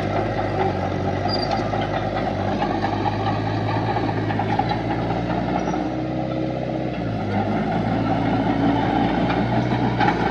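Heavy diesel engine of earthmoving machinery running steadily, its pitch shifting slightly about three-quarters of the way through.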